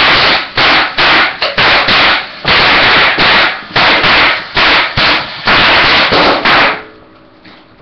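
Handheld firework going off in over a dozen loud, distorted bursts in quick succession, stopping about seven seconds in.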